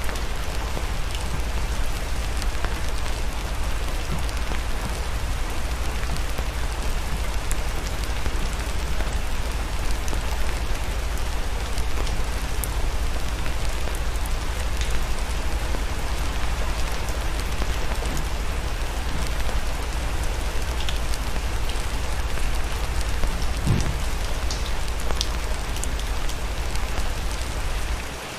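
Steady, heavy rain pattering on a surface, a dense even hiss over a low rumble, with scattered sharp ticks and crackles through it.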